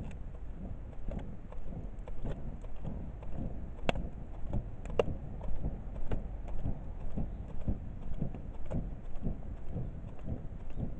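Wood fire burning in a garden kamado, crackling with scattered small pops over a low rumble, and two sharper pops about four and five seconds in.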